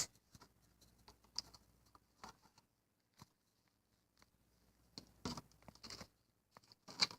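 Faint, scattered knocks, clicks and rustles of household items being picked up and moved about, busier about five seconds in and again near the end.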